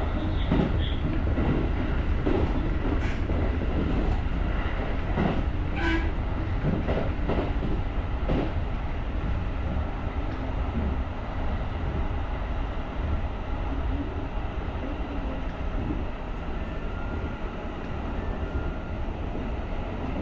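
JR rapid electric train running along the line, heard from the driver's cab: a steady low rumble of wheels on rail, with irregular knocks in the first half as the wheels cross track joints, then a smoother, slightly quieter run.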